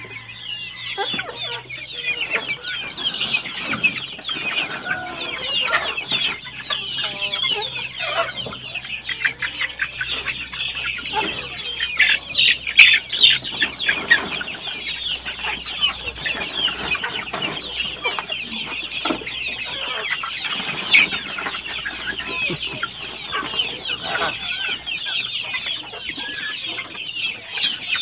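A flock of month-old heritage-breed chicks, Rhode Island Reds among them, peeping continuously: many overlapping high chirps. A couple of sharp knocks come about halfway through.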